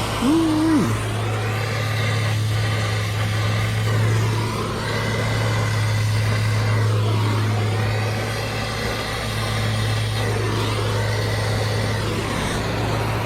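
Brazing torch flame running steadily, heating a refrigerant line joint to burn off refrigerant oil, over a steady low hum.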